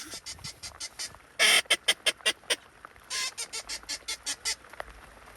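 Duck call blown in quacking series: three runs, each a loud, drawn-out quack followed by about six quicker quacks that fade away, calling to incoming ducks.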